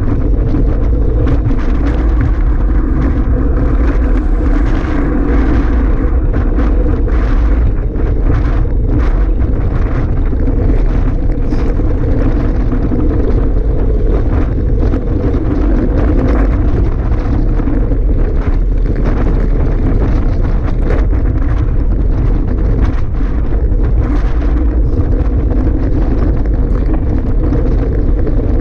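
Strong wind buffeting the microphone: a loud, steady, deep rumble with gusty flutter.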